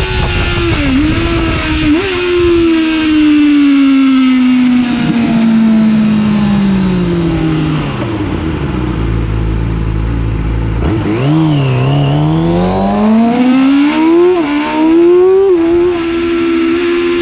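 A 2009 Yamaha YZF-R6's inline-four heard on board over wind rush. The revs fall steadily for several seconds as the bike slows and stay low for a few seconds. About eleven seconds in the throttle opens and the revs climb, broken by two quick upshifts, then hold high near the end.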